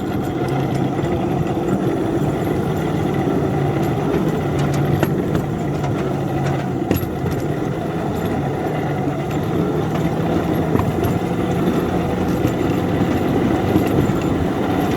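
Small ride-on railroad locomotive's engine running steadily under load as it pushes a snowplow along the track.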